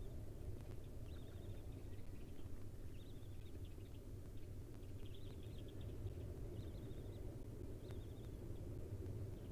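Barn owl nestlings giving short, high chittering calls, a new one every second or two, over a steady low hum from the nest box.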